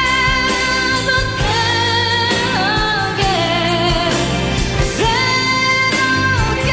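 Live pop ballad music: a singer holds long, high notes with vibrato over band accompaniment. The voice slides down in pitch partway through, then climbs back to a held high note.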